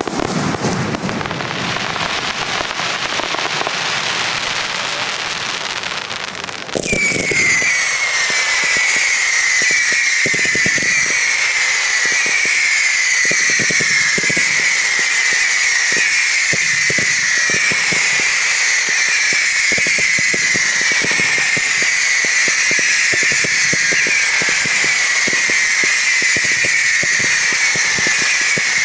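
Fireworks display: dense crackling bursts at first, then about seven seconds in a louder volley sets in, a continuous chain of overlapping whistles, each falling in pitch, over many sharp cracks and bangs.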